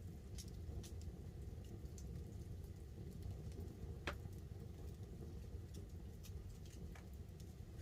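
Wood fire crackling, with scattered small pops and one louder pop about four seconds in, over a steady low rumble of the burning fire and light rain pattering on the tarp.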